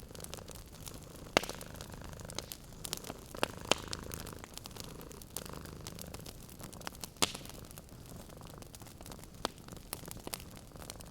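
Wood fire crackling with irregular sharp pops, the loudest about 1.4, 3.7 and 7 seconds in, over a cat's steady low purring.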